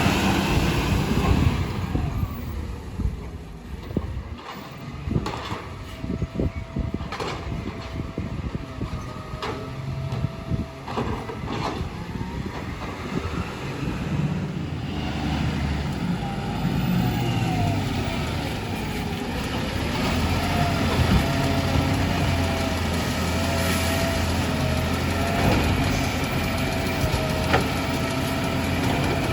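Garbage truck running, with a run of sharp knocks and clatter in the first half and a steady whine that comes and goes, over an engine hum that grows steadier in the second half.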